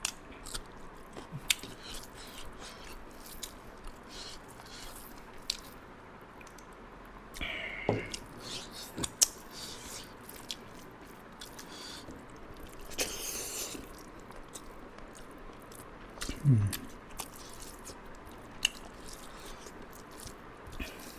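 Close-miked chewing and biting of someone eating a meal of rice with chicken liver and gizzard stir-fry, with many small wet clicks and smacks. Two short low voice-like sounds, each falling in pitch, come about a third of the way in and again past the middle.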